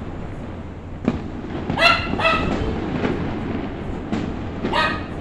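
Fireworks going off at a distance, a continuous rumble with a few sharp bangs, while a frightened dog barks in two quick pairs, about two seconds in and again near the end.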